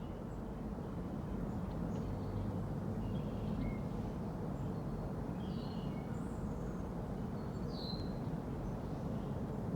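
A few short, scattered bird chirps over a steady low outdoor rumble.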